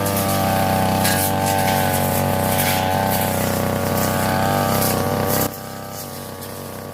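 Two-stroke brush cutter engine (Tanika 328 ER) running at high speed with a steady drone. It drops abruptly to a much quieter sound about five and a half seconds in.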